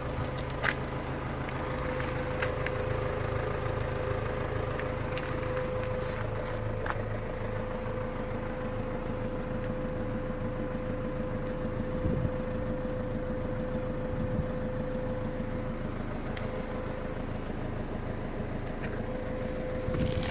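Ford Transit Connect refrigerated van running at idle: a steady low engine hum with a constant whining tone over it, and a few faint ticks.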